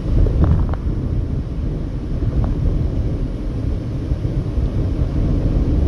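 Steady low rumble of a car driving at highway speed, tyre and engine noise heard inside the cabin.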